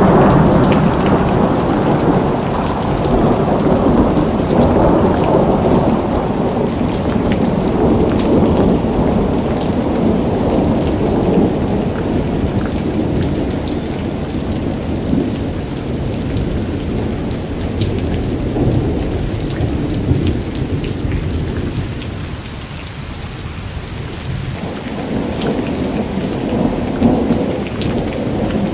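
Heavy rain falling steadily, with a low rolling rumble of thunder under it. The rumble eases about two-thirds of the way through and builds again near the end.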